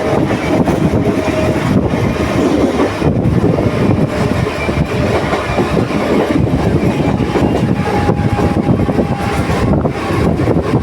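Train running along the track: a loud, steady rumble of wheels on rails.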